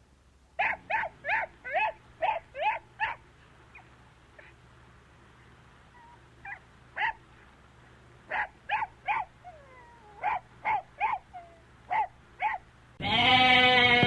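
An animal giving short, high yelping calls, in runs of several at about two a second with pauses between. Near the end a much louder, drawn-out call begins.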